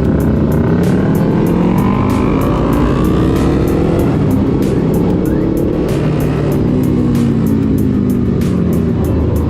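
A motorcycle engine running under way, its pitch rising and falling a few times as it speeds up and eases off. Background music with a steady beat plays over it.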